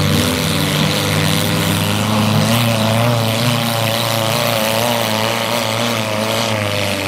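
Several demolition derby cars' engines running and revving together in a loud, steady drone whose pitch wavers up and down as the cars push and shove.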